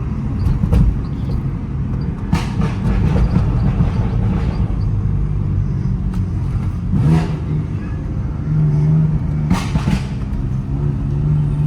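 Car being driven on a rough road, heard from inside: a steady engine and road rumble with a low hum, broken by a few short knocks and rattles as it goes over bumps.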